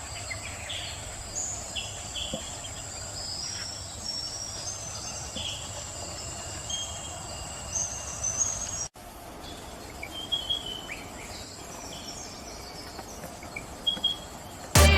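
Birds chirping in short calls over a steady, high-pitched insect drone. The sound breaks off sharply about nine seconds in and resumes the same way, and loud music starts right at the end.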